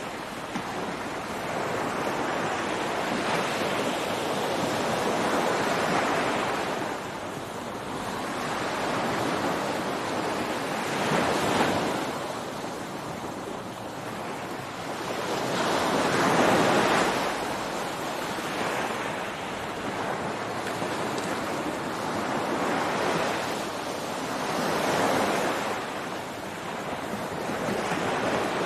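Ocean surf breaking on a beach: rushing water noise that swells and falls away every few seconds as waves come in, the loudest break a little past halfway.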